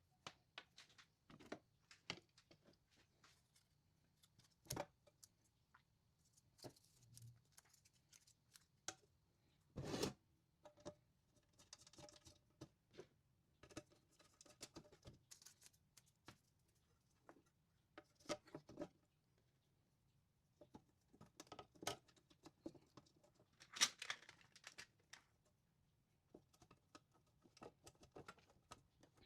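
Faint, scattered clicks and taps of small parts and tools being handled while a charging module is fitted into a power-station chassis, with a somewhat louder knock about ten seconds in and another about twenty-four seconds in.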